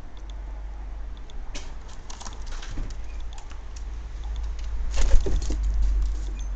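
Birds moving about a garden feeder: scattered taps and rustles over a steady low rumble, with the loudest cluster about five seconds in.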